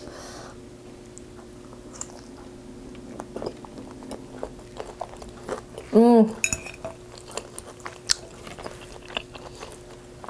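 Close-up eating sounds of a person chewing carne asada fries (fries with steak, cheese, guacamole and sour cream): soft, wet chewing and small mouth clicks, with a metal fork clicking against a glass bowl. About six seconds in comes a brief hummed "mm" from the eater, the loudest sound.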